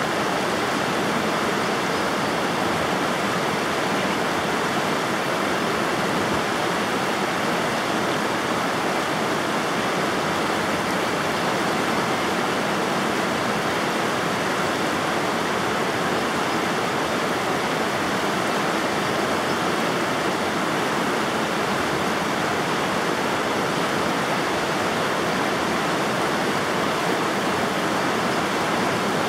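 River water flowing steadily, an even rush of noise that holds the same throughout.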